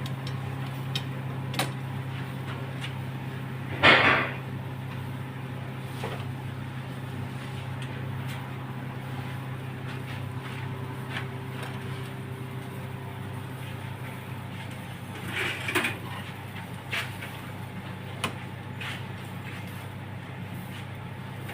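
A steady low hum with scattered light knocks. A louder clatter or scrape about four seconds in and another near the end.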